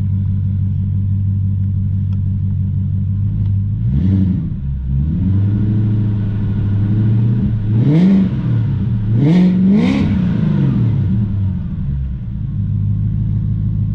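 BMW 540i E39's 4.4-litre V8 breathing through a custom cat-less exhaust with a 3-inch single pipe and Thrush muffler, idling and then revved in a string of throttle blips, the last three sharper and higher, before settling back to idle. The car is still warming up.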